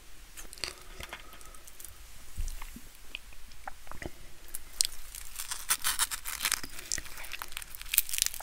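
Cheesy bread being bitten and chewed with crisp crunching. Scattered small clicks come first, then from about halfway the crackling bites and chews come thick and fast.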